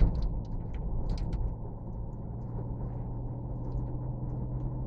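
A steady low mechanical hum, like an engine running, with a few light clicks in the first second or so.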